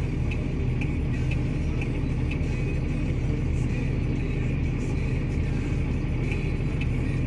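Vehicle engine idling with a steady low hum, joined by a fainter steady higher tone.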